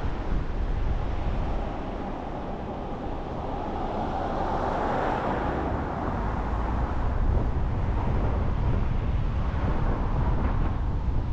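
Car on the move: a steady low rumble of engine and road noise with wind noise on the microphone, and a broad rushing swell about four to six seconds in.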